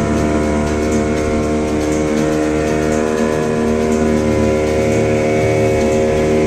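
Motorboat engine running at a steady speed, an even drone with no change in pitch.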